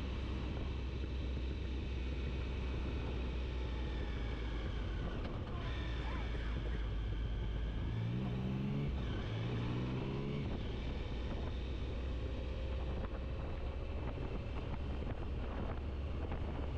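Motorcycle engine running at steady road speed, with wind rushing past; about two-thirds of the way in it revs up twice in quick succession, each rise cut off by a gear change.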